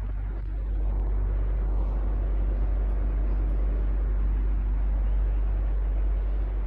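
Electric fan running steadily: an even whoosh of moving air over a strong low motor hum.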